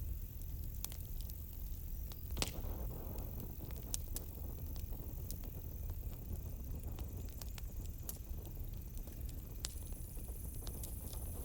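Wood campfire crackling with scattered sharp pops, the loudest about two and a half seconds in, over a steady low rumble. Crickets chirp faintly in a high, broken trill behind it.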